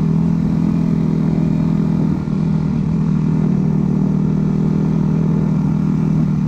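Dirt bike engine running steadily at a constant speed, with a brief slight drop about two seconds in.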